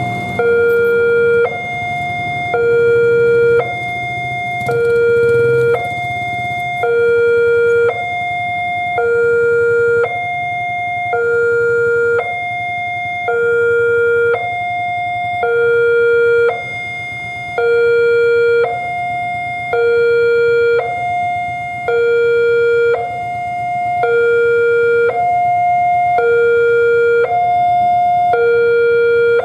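Railway level-crossing warning alarm sounding a steady two-tone hi-lo pattern, a higher and a lower tone alternating about a second each. It is the crossing's signal that a train is approaching.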